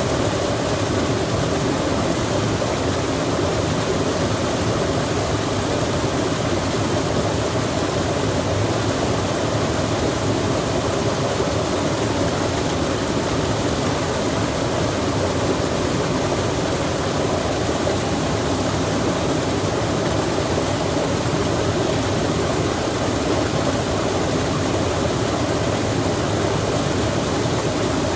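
Flowing water rushing steadily, like a mountain stream, with no change in level.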